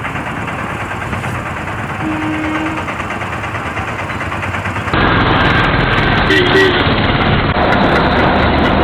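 Steady engine noise, which changes abruptly to a louder, brighter noise about five seconds in.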